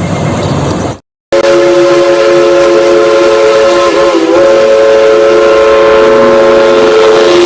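A train horn sounding one long, loud blast of several notes at once, with a brief waver in pitch about halfway through. Before it comes about a second of rumbling vehicle noise, which cuts off abruptly.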